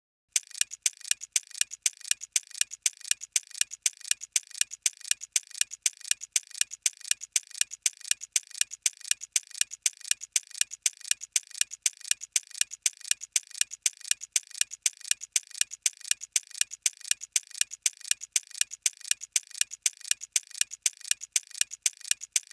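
A clock-ticking sound effect, steady and regular, serving as the thinking-time timer for a quiz question.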